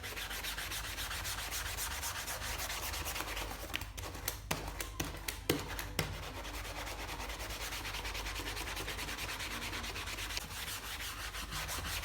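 Mouse pad being scrubbed in fast, even back-and-forth strokes, a steady rubbing sound, with a few sharp clicks about four to six seconds in.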